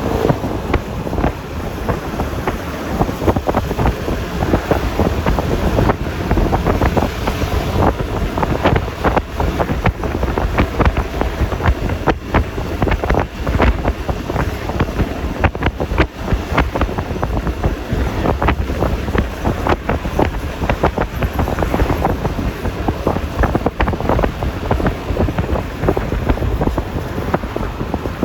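Wind buffeting the microphone of a camera riding on a moving Yamaha Lexi LX 155 scooter, in constant rough gusts, over a low rumble of engine and road noise.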